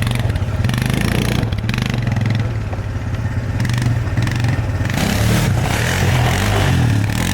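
400cc snowmobile engine of a lightweight homemade go-kart running under way, its pitch rising and falling as the throttle is worked, with bursts of noise over it.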